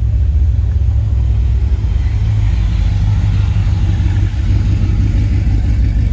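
A car engine running at low revs close by, a steady low rumble that picks up slightly about two seconds in.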